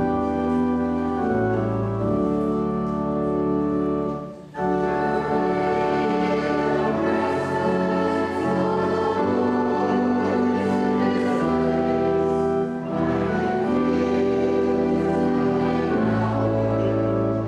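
Church organ playing slow, sustained chords, with short breaks between phrases about four and thirteen seconds in.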